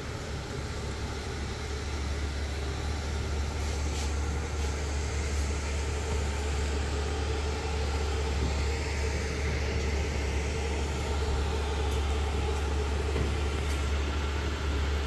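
Ferrari F12's V12 engine idling steadily, an even low drone, with a few faint clicks.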